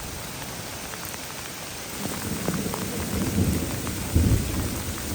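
Steady rain hissing with scattered drops tapping, and about two seconds in a low rumble of thunder rises and swells.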